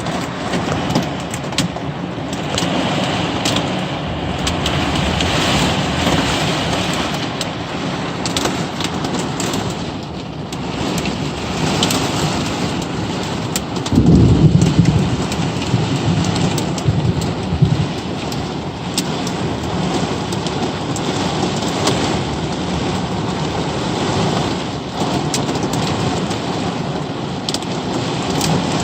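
Steady heavy rain with scattered sharp drop ticks; about halfway through, a sudden clap of thunder breaks into a loud low rumble that lasts a few seconds before fading back into the rain.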